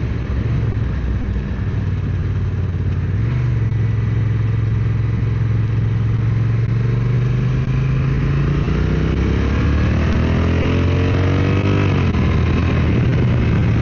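Motorcycle engine running on the road with wind noise. About seven seconds in, the engine note climbs steadily for several seconds, then drops abruptly near the end.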